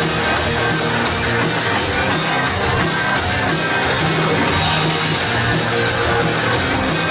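Live worship band playing loud rock with drum kit and electric guitar.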